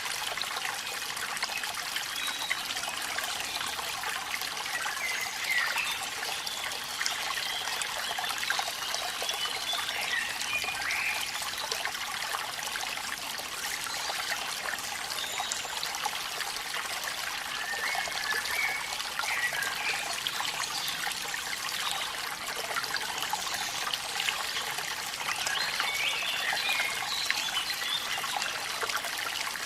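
Waterfall water running and trickling steadily, a continuous watery hiss dotted with small bubbling gurgles.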